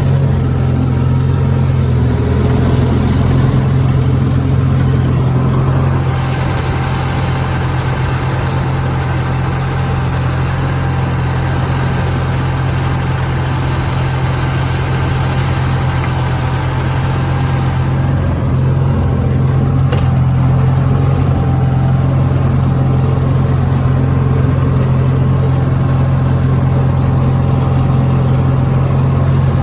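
Sears Suburban garden tractor's engine running steadily.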